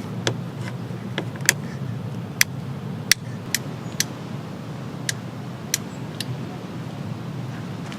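Scattered raindrops dripping onto a camping tarp, sharp single ticks at irregular intervals, over a steady low rush of rain.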